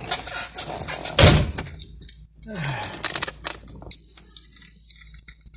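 A thump about a second in, then one steady high-pitched electronic beep lasting about a second, the loudest sound.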